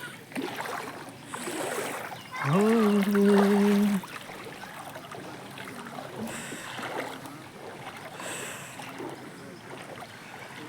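Floodwater sloshing and trickling, with one loud, long held call, steady in pitch for about a second and a half, a few seconds in.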